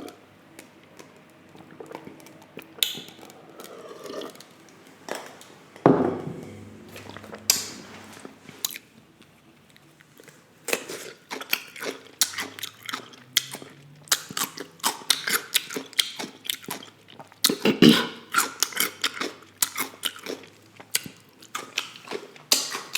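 Close-miked chewing and mouth sounds of a person eating: wet smacks and clicks, a few at first, then quick and continuous from about halfway through.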